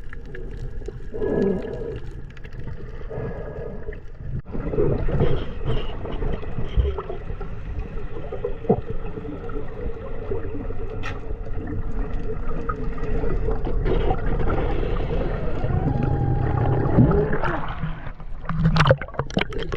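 Muffled underwater sound of a snorkeler diving: water gurgling and sloshing around the camera, over a steady low hum. The sound changes abruptly about four and a half seconds in.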